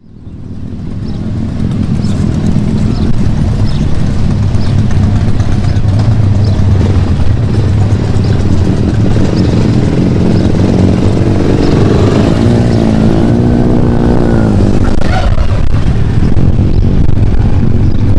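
Motorcycle engine running, fading in at the start; about two-thirds of the way through its pitch rises and then falls.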